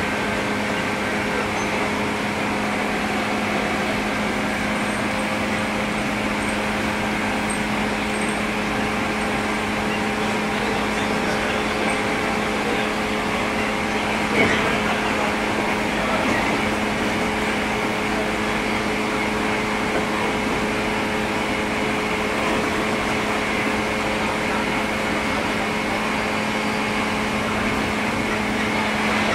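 Steady mechanical hum inside a JR 103 series electric commuter train car: a constant low drone with a fixed tone that neither rises nor falls, and a brief knock about halfway through.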